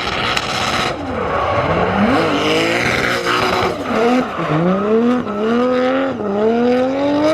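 Drift cars on track, with tyre squeal in the first half. After that one engine revs hard: its pitch climbs, drops sharply and climbs again about three times.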